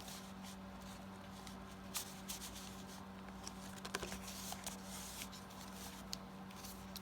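Paper tags and cards being handled and tucked into the pockets of a handmade journal: soft rustling with scattered light taps and clicks, over a steady low hum.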